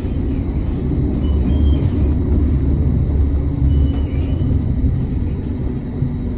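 Amsterdam tram running on its rails, heard from aboard as a steady low rumble, with two faint, brief high-pitched squeals about a second and a half and four seconds in.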